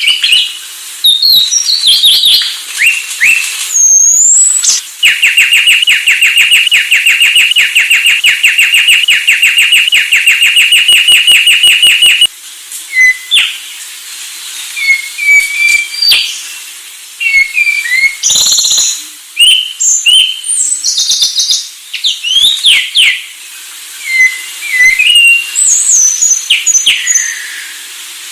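An anis Sulawesi thrush singing a loud, varied whistled song. Several seconds in, it breaks into a long rapid trill of the same note repeated about seven times a second, lasting about seven seconds. It then returns to short varied whistles and slurred phrases.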